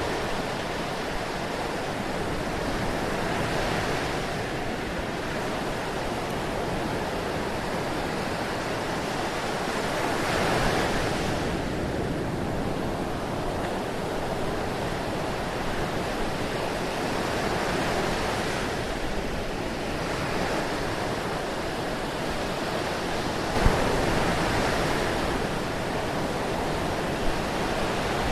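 Ocean surf: a steady rush of breaking waves that swells and eases every six or seven seconds. One brief thump stands out near the end.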